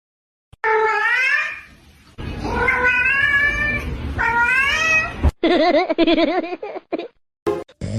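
A cat meowing in long, drawn-out yowls: three calls that bend in pitch, then a wavering, quavering call near the end.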